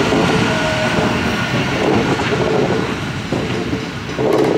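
Electric suburban train passing close by, its wheels clattering over the rails, the noise fading as the last carriage clears. There is a short loud burst of noise just before the end.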